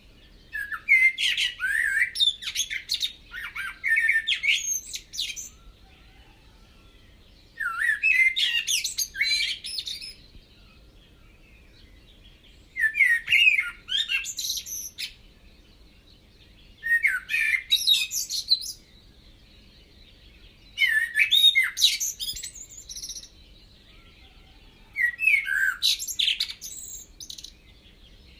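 A songbird singing in repeated phrases of quick chirping, warbling notes, six phrases each about two seconds long with short pauses between.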